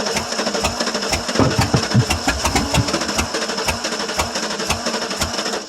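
Starter motor cranking the 1995 Ford F-150's 5.8-litre 351 V8 on a cold start, the engine churning over in an even beat of about three to four strokes a second. It gets louder about a second and a half in as the engine tries to catch, but it does not start, and the cranking stops abruptly at the end.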